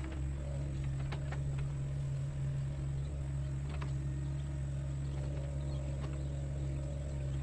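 Sunward mini excavator's diesel engine running steadily with a low, even hum, with a few faint knocks from the machine at work.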